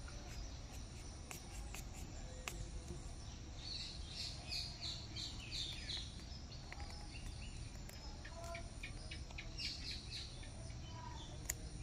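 Small birds chirping, a quick run of short high chirps about four seconds in and again near ten seconds, over faint outdoor background noise. A single sharp click near the end.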